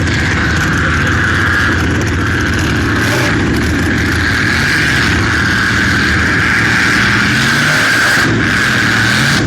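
Sprint boat engine running hard at high revs, its pitch sliding up and down and rising near the end.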